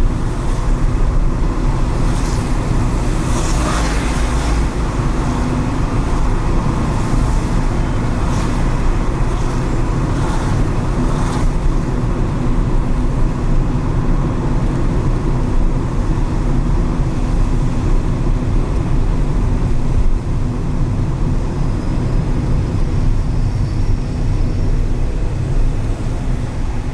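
A car driving through city traffic on wet streets: a steady low rumble of road and engine noise, with a few short hissing swishes in the first dozen seconds.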